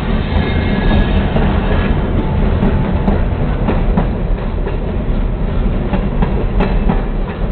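Diesel locomotives hauling a coal train pass close by over a level crossing, their engines running with a steady low rumble. From about halfway through, the wheels click over the rail joints.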